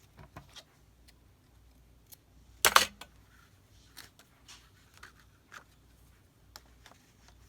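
Small taps and clicks of paper craft materials being handled on a table, with one short, sharp clack about two and a half seconds in.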